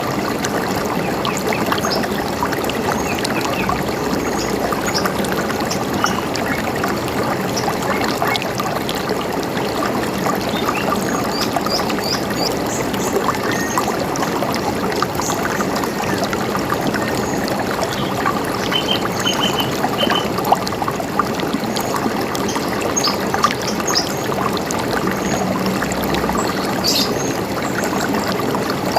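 A river running steadily. Short, high bird chirps are scattered over it, a few around the middle and some near the end.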